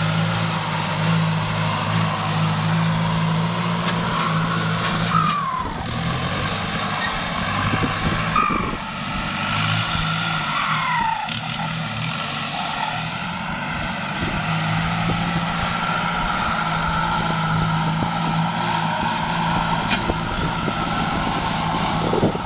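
Kubota tractor's diesel engine running steadily under load while ploughing, its low drone dipping briefly twice. A few short falling chirps sound over it around the middle.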